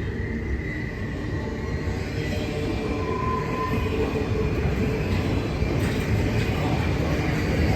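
Norfolk Southern westbound freight train passing close by, its rumble growing steadily louder, with a brief high wheel squeal about three seconds in.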